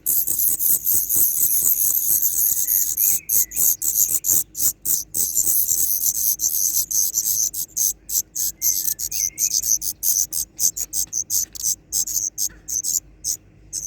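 Hungry small birds begging for food with loud, rapid, very high-pitched cheeping, many calls a second, pausing briefly now and then. A few softer, lower gliding chirps come in about three seconds in and again around nine seconds.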